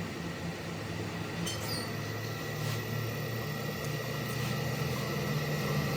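Workshop machine motor running with a steady low hum and a thin steady whine, with a few faint light metal clinks.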